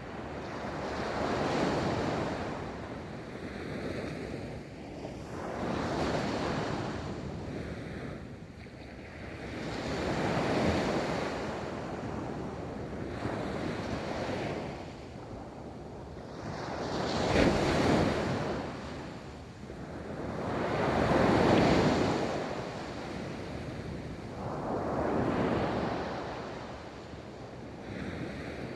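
Ocean waves breaking and washing up a beach, each rolling surge swelling and fading every three to four seconds, with wind noise on the microphone.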